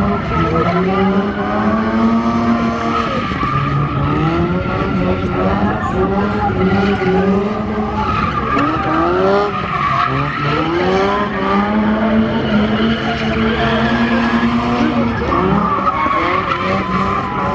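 Drift car's engine revving up and down again and again as it slides, with tyres squealing.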